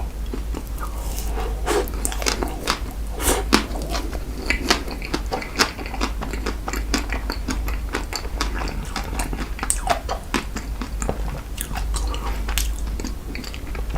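Close-miked eating sounds of ice cream dessert cake being chewed: a dense run of wet mouth clicks, smacks and chewing, over a steady low hum.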